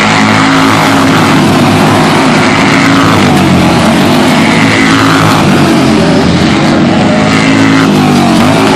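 Racing superbikes running at high revs as they pass, several engine notes rising and falling through gear changes, loud throughout.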